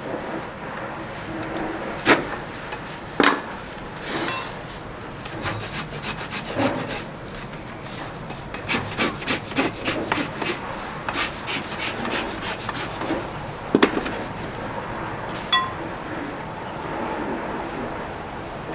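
Farrier working a racehorse's hoof with a rasp and hand tools: scraping strokes, a quick run of them in the middle, broken by a few sharp clicks.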